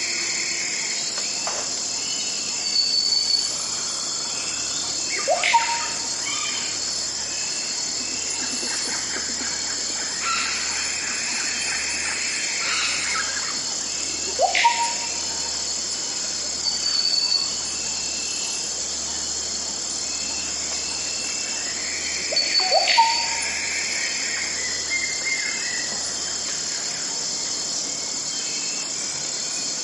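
Forest ambience: a steady high insect chorus with birds calling over it. One bird gives a short, rising whistled call that repeats every several seconds, and other birds chirp higher up in between.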